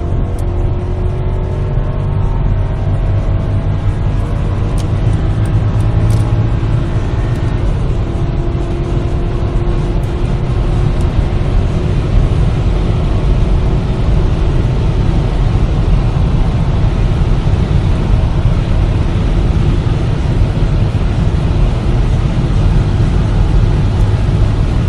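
Mercedes-Benz ML 63 AMG's V8 pulling under full-throttle acceleration at high speed, its note climbing slowly, with heavy wind and road noise building over it.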